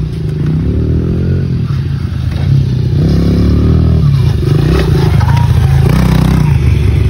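Small Honda pit bike's single-cylinder four-stroke engine revving up and falling back several times as it is ridden.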